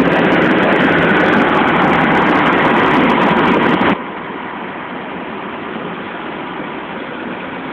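Generator engines running steadily with a loud, even machine noise. About four seconds in, it drops abruptly to a quieter steady hum.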